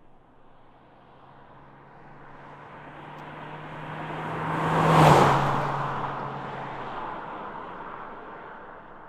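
Toyota Matrix driving past: it grows louder as it approaches, passes close about five seconds in with a rush of tyre and engine noise, then fades away.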